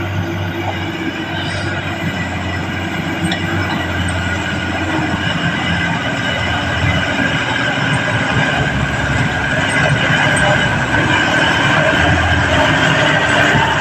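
Heavily loaded Ashok Leyland diesel truck labouring uphill: a steady engine drone with a high whine over it, growing slowly louder.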